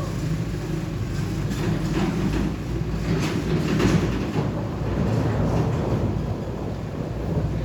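Steady low rumble, like a heavy vehicle passing, with faint scattered ticks over it.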